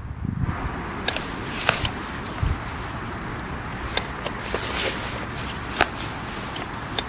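Wood campfire crackling, with sharp pops and snaps scattered irregularly over a steady low rumble.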